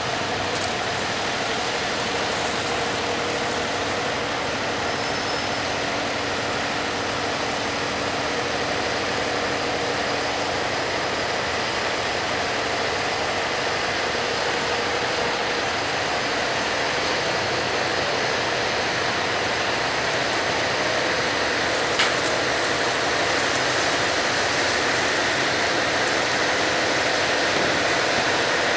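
Pusher tug's engine running steadily under an even wash of noise, with a single short click about three-quarters of the way through.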